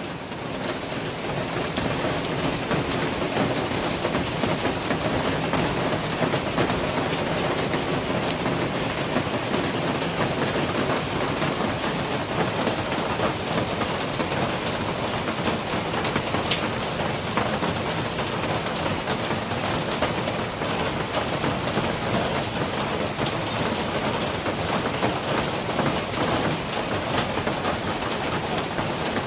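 Steady rain falling, a dense even hiss of drops hitting a surface, fading in over the first second.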